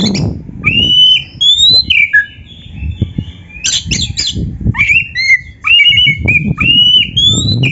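Oriental magpie-robin (kacer) singing: clear whistled phrases that slide up and down in pitch, broken by a few harsh, scratchy notes about halfway through.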